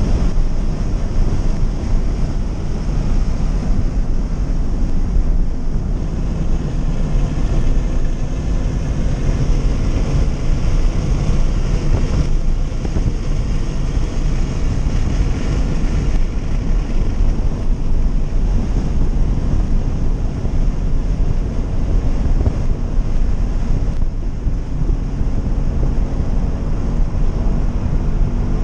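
Scion FR-S's 2.0-litre flat-four boxer engine under hard driving on a track lap, heard from inside the cabin, its note rising and falling as it revs through the gears. Under it runs a heavy, steady rumble of wind and road noise.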